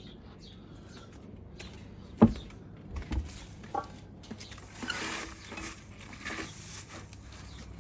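Dustpan and brush sweeping up debris: a sharp knock about two seconds in and a few lighter knocks, then scratchy brush strokes, one about five seconds in and another about a second and a half later.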